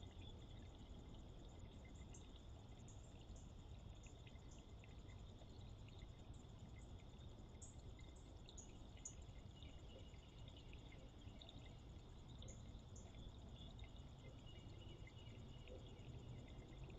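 Faint, steady trilling of night insects, with a few short high chirps scattered through it.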